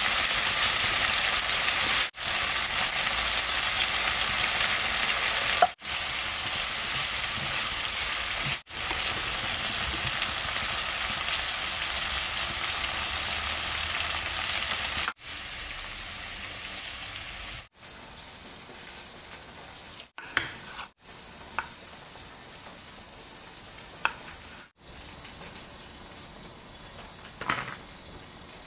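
Food sizzling in hot oil in a frying pan, in several short edited shots; the sizzle is loud at first and quieter in the later shots, with a few light clicks near the end.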